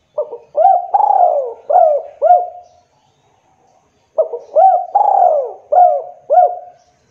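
Spotted dove (tekukur) singing: two cooing phrases about four seconds apart, each a run of four or five short coos.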